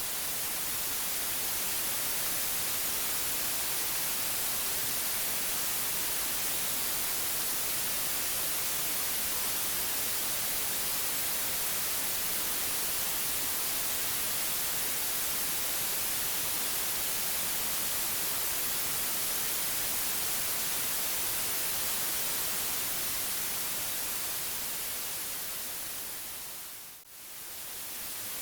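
Steady white-noise hiss, even across the whole range and brightest in the treble. Near the end it briefly fades down and swells back up.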